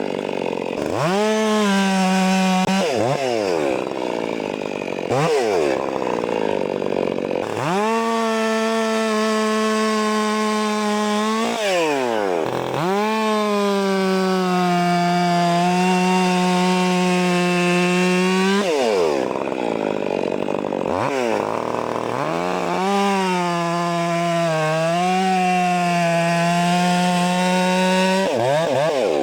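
Stihl MS 400 C two-stroke chainsaw cutting wood at full throttle. Through each cut the engine holds a steady pitch under load; between cuts it revs up freely and drops back. There are several cuts in a row, the longest about six seconds.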